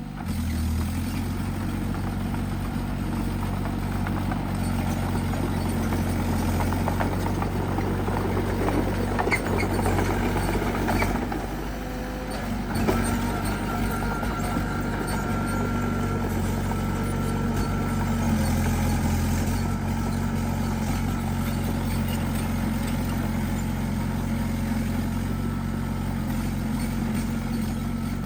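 Small bulldozer's diesel engine running steadily under load, with a few short knocks and a brief drop in level about ten to twelve seconds in.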